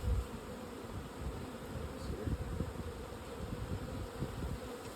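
A mass of honey bees buzzing in a steady, dense hum, with some low bumps underneath.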